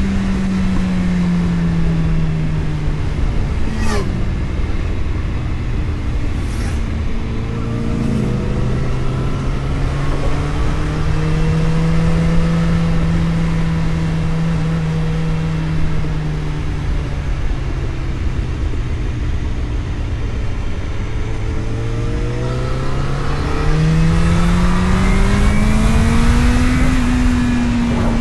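Vehicle engine heard from on board while driving, over steady road rumble. Its pitch eases down, drops a step about eight seconds in as if changing gear, holds steady, then climbs as it accelerates near the end. Two short clicks come early on.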